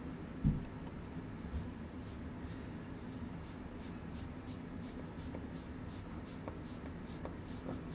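Mechanical watch movement ticking, a Seiko 6138 automatic chronograph calibre: a faint, fast, even ticking. A dull bump comes about half a second in and a sharp click about halfway through.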